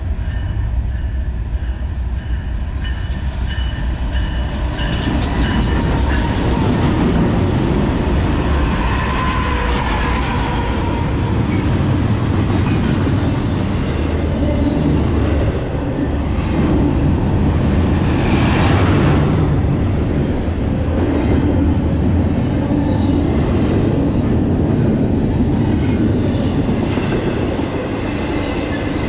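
A train rolling past close by: a steady heavy rumble, with a quick run of clicks a few seconds in.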